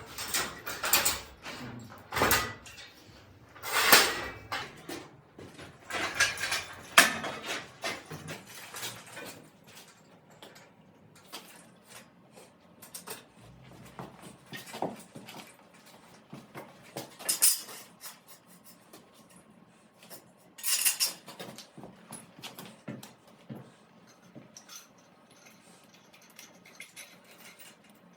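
Irregular metal clanks and clinks as the engine is rigged to a crane hook for lifting out, busiest in the first several seconds and flaring up twice later.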